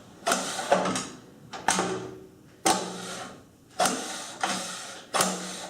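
Table saw miter gauge being slid back and forth in its freshly waxed slot: about six quick sliding strokes, each starting with a knock and trailing off, roughly one a second.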